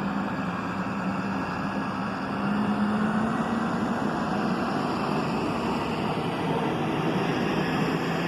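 Steady hum of vehicle engines and traffic, with a low engine drone that rises a little in pitch about two and a half seconds in.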